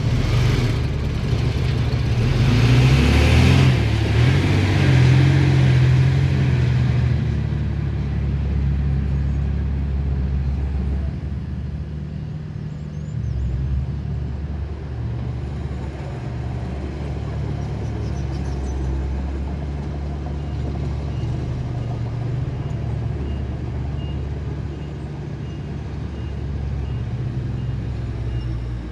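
Diesel engines of earthmoving machinery working. They are loudest and rough in the first several seconds, then run steadily. A faint reversing alarm beeps at an even pace in the last several seconds.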